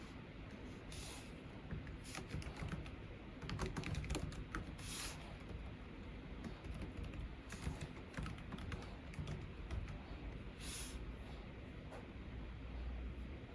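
Computer keyboard being typed on quietly, in short bursts of key clicks with pauses between. A few brief louder swishing sounds fall among the bursts.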